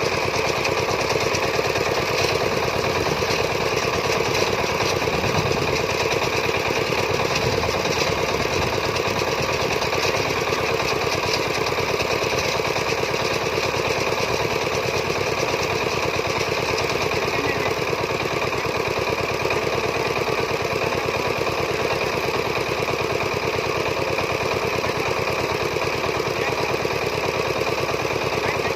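Farm diesel engine running steadily, with a rapid, even knocking beat.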